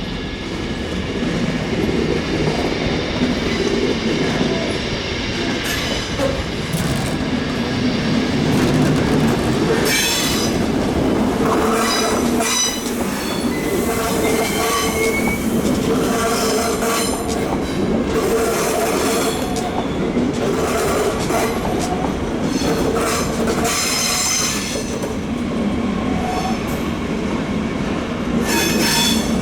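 Train rolling through a tight curve, its wheel flanges squealing against the rail in repeated shrill bursts over a steady rumble of wheels on track, with some clatter over rail joints.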